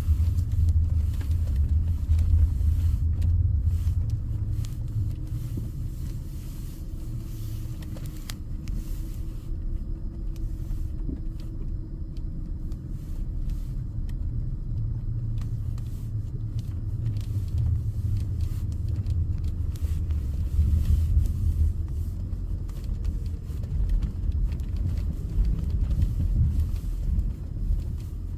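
Car driving slowly through deep snow, a low engine and road rumble that swells and eases, with a faint engine tone rising a little partway through.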